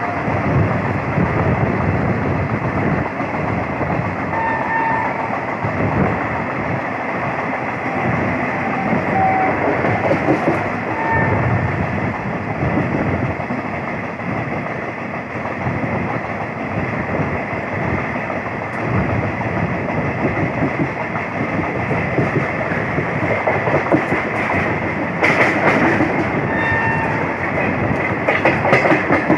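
Mayurakshi Fast Passenger train running along the track: a steady rumble with the clickety-clack of wheels over rail joints. Near the end it turns louder and brighter for a few seconds.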